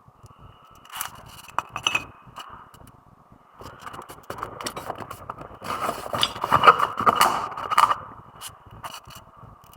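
Metal scraping and clinking: a few sharp clinks, then a longer stretch of scraping in the middle, as of hand tools at work on metal parts.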